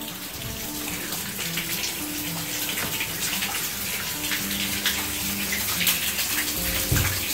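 Steady light drizzle with no wind, the even hiss of rain dotted with many small drip ticks close by. A low thump near the end.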